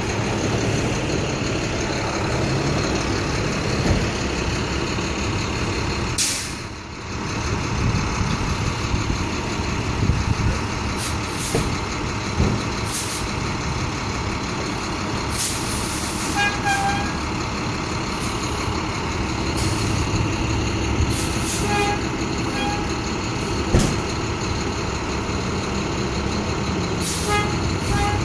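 A large rental box truck's engine running steadily close by, with short hissing bursts now and then. Three times, a pair of short beeps sounds.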